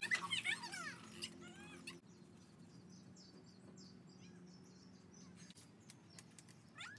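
Birds chirping: a burst of quick sweeping chirps in the first two seconds that stops abruptly, then fainter, high, short chirps.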